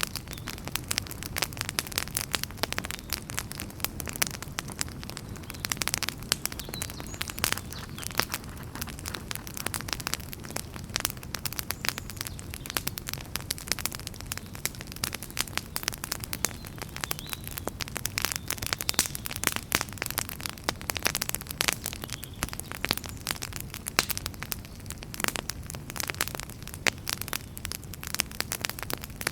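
Wood fire burning in a fireplace, crackling and popping constantly with dense, irregular sharp snaps over a steady low rumble of the flames.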